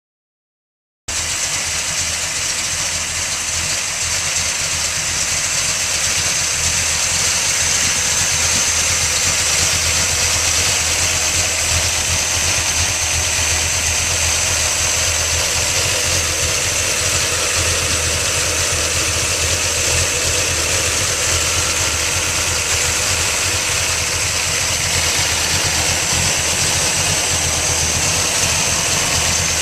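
1961 Ford Starliner's V8 engine, topped with three carburettors, idling steadily; the sound cuts in abruptly about a second in.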